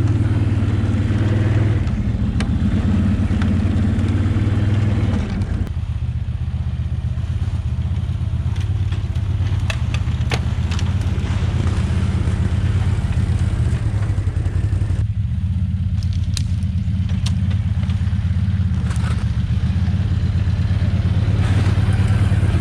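ATV engine running at low, steady throttle while the quad picks its way along a rough trail. The engine note eases off about five seconds in, with scattered light clicks and knocks over it.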